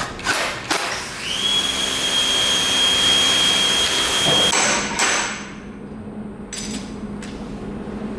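A few sharp metal knocks, then a power tool runs for about three seconds with a loud hiss and a high steady whine that rises slightly as it starts and cuts off suddenly, followed by a few more knocks.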